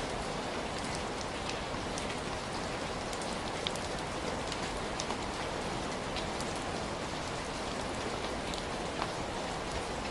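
Steady heavy rain falling, a dense even hiss with scattered sharper drop impacts.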